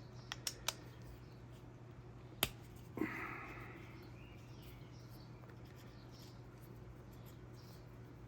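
Light clicks and taps of small parts being handled during carburetor removal: three quick clicks at the start, another click a couple of seconds later, and a brief scrape about three seconds in, over a steady low hum.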